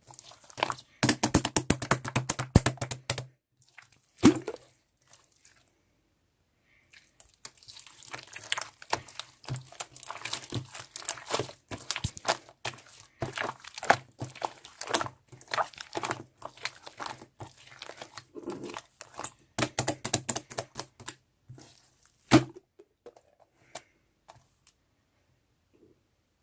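Handling noise: crinkling and crackling in two long stretches, with a sharp thud about four seconds in and another near the end.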